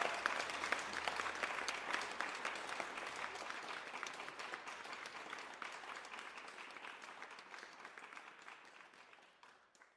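Audience applauding, with many hands clapping, fading out steadily until it dies away near the end.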